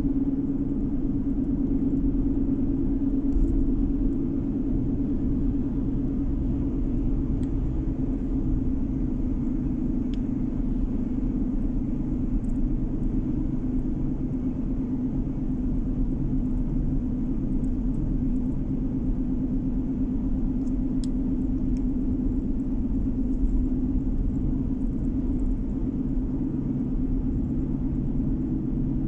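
A car driving at a steady pace, heard from inside the cabin: even engine and tyre rumble with a steady low drone.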